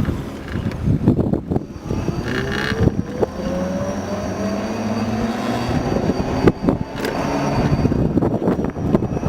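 Electric motorcycle on the move, wind buffeting the microphone, with the motor's whine rising steadily in pitch for several seconds as it speeds up. A few sharp knocks come near the middle.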